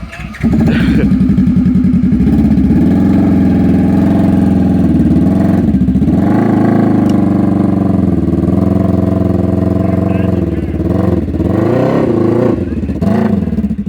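Polaris RZR 900 side-by-side engine held at high revs under load while towing a stuck vehicle. It comes in suddenly about half a second in and runs steadily, with the revs rising and falling a few times in the second half.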